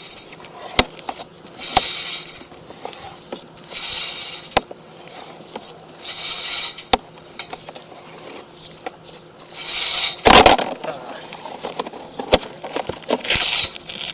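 Sewer inspection camera push cable being fed by hand through drain and vent pipe, rubbing and scraping in strokes about every two seconds, with sharp clicks in between and a louder scrape about ten seconds in.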